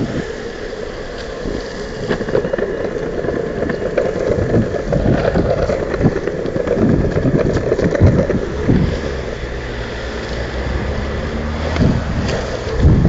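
Longboard wheels rolling on wet pavement: a continuous low rumble with scattered knocks, and wind buffeting the microphone.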